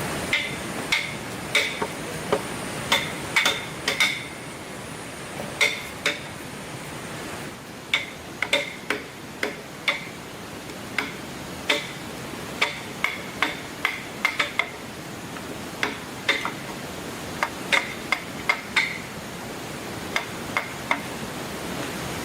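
Irregular hammer blows, one to three a second with short pauses, each strike giving a brief ringing note.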